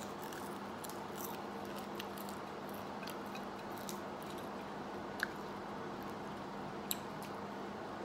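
Quiet chewing and small wet mouth clicks of a person eating rice by hand, with two sharper clicks in the second half.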